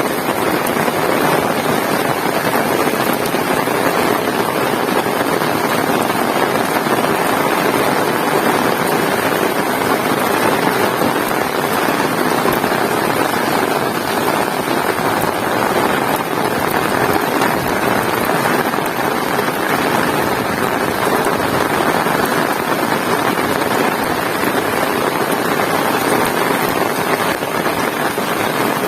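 Heavy rain pouring steadily, a loud, dense, even hiss with no letup.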